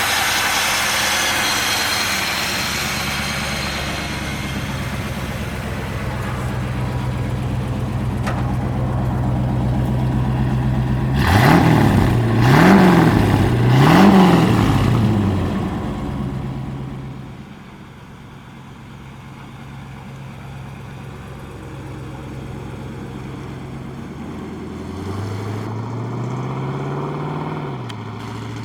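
1941 Ford Sedan Delivery's engine idling, blipped three times in quick succession about halfway through, then settling to a quieter idle and revved once more, more slowly, near the end.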